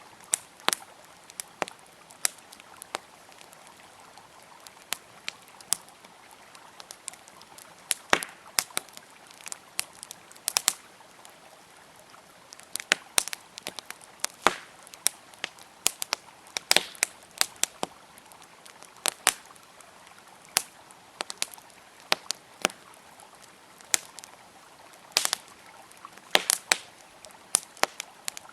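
Wood fire crackling, with irregular sharp pops and snaps, over the steady rush of a flowing river.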